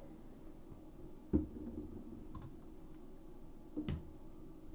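Two light knocks, one about a second in and one near the end, as things are handled inside a full bathroom vanity cabinet, over a faint steady low hum.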